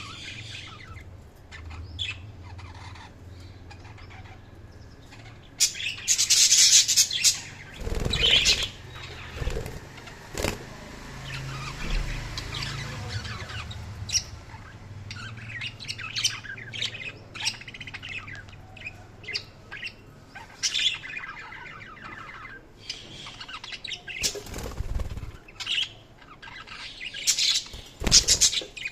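Budgerigars chirping in quick, irregular bursts, loudest in a dense stretch about six seconds in and again near the end.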